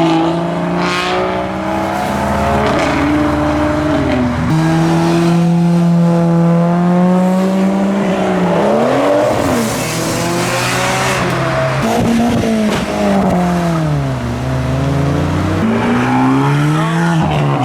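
Modified cars' engines revving and pulling away as they drive past one after another, several overlapping. Their notes hold steady for a few seconds, then fall and rise again.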